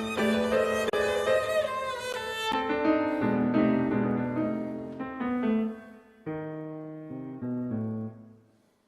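Classical chamber music: piano with a bowed string melody. After about two and a half seconds the playing thins to single piano notes stepping downward, and the phrase dies away just before the end.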